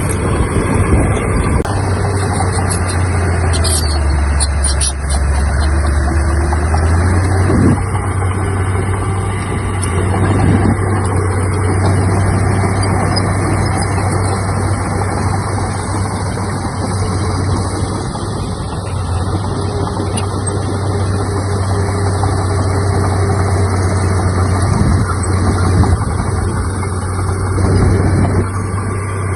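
Heavy diesel earthmoving machinery running steadily at work, with a deep engine drone that drops lower in pitch for a few seconds near the start before returning.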